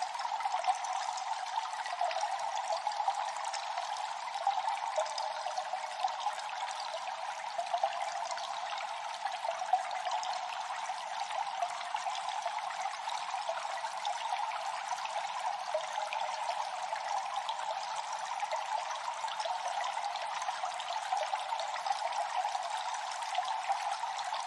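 Water dripping and trickling in a cave: a dense, steady run of small drips over a continuous trickle.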